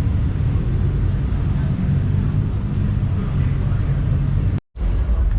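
Car-meet ambience: a steady low rumble of cars with faint background chatter. The sound cuts out completely for a split second near the end.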